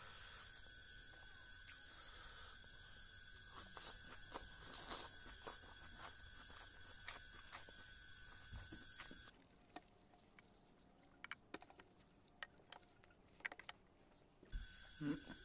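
Faint chewing and smacking mouth clicks from someone eating rice with fish curry and bamboo shoot by hand. Behind them runs a steady high-pitched whine that cuts out about nine seconds in and comes back near the end.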